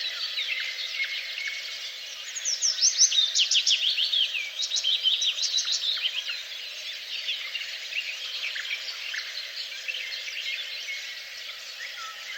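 Several songbirds singing at once in a dense chorus of chirps and trills, loudest from about two to six seconds in with quick runs of high, downward-sweeping notes.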